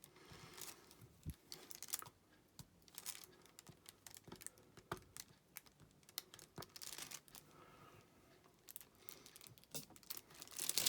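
Soft, irregular clicks and taps of diamond painting: a drill pen picking up small resin drills from a plastic tray and pressing them onto the sticky canvas, with light rustling.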